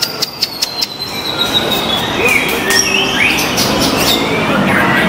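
White-rumped shamas (murai batu) singing in contest: a dense run of whistled glides and trills, with a long high whistle that slowly falls and a string of sharp clicking notes in the first second.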